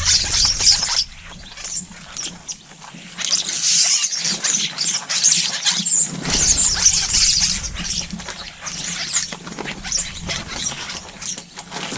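Small garden birds chirping at feeders, with a busy patter of light clicks and scratches throughout.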